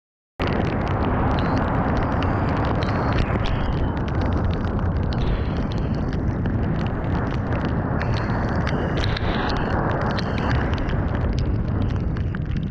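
Riding sound from a Kawasaki Ninja 400 motorcycle on the move: heavy wind rush over the microphone with many sharp crackles, cutting in suddenly just after the start and thinning a little near the end.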